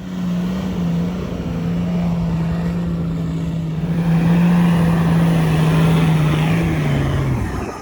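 Dirt bike engine running hard at steady high revs while climbing a soft sand dune. The engine note drops slightly and fades near the end.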